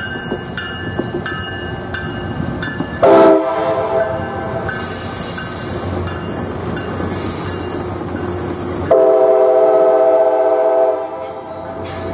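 Tri-Rail commuter train running past close by, cab car leading, over a steady rumble of wheels and cars. Its horn gives a short blast about three seconds in and a long blast of about two seconds near the end, and a bell rings about twice a second during the first few seconds.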